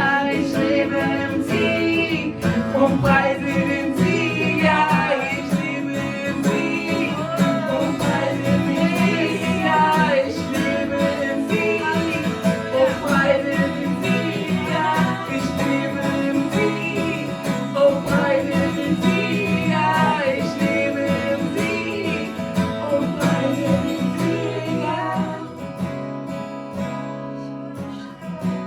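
Worship band music: acoustic guitar strumming under a bending melody line, with no words. About 25 seconds in the fuller band drops back and the sound gets quieter.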